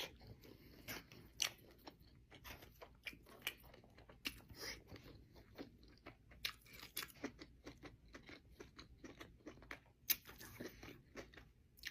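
Close-miked chewing of a sushi roll: a quiet, irregular run of small wet mouth clicks and soft crunches.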